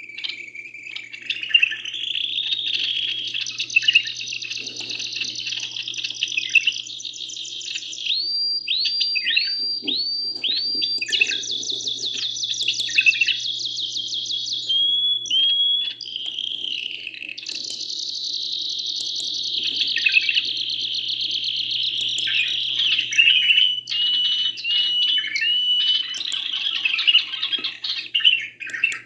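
Caged canary and bulbul singing without pause: long, fast, rattling rolls alternate with runs of repeated clear whistles that drop in pitch, about five in a row.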